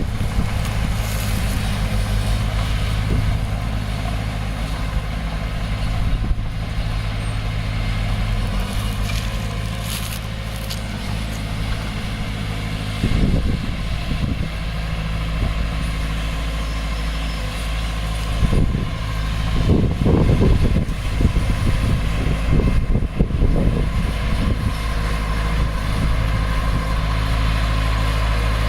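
Heavy diesel engine of earthmoving equipment running steadily, with a few louder, rougher stretches around the middle.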